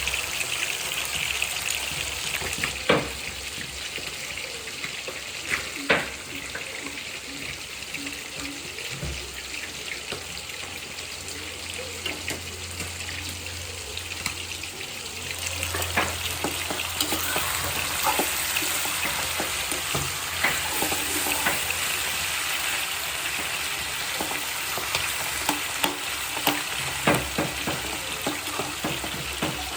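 Food sizzling as it fries in a pan and is stirred, with a utensil knocking sharply against the pan now and then, most often in the second half.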